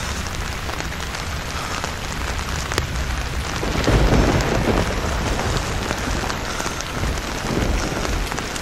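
Heavy rain pouring steadily, swelling louder with a low rumble about four seconds in.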